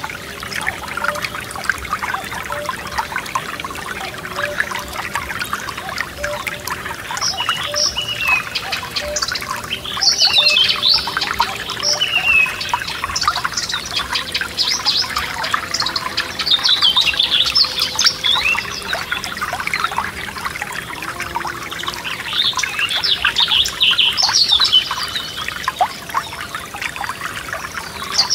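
A forest stream trickling and gurgling without a break, with songbirds singing in short bursts of chirps and trills that come and go from several seconds in.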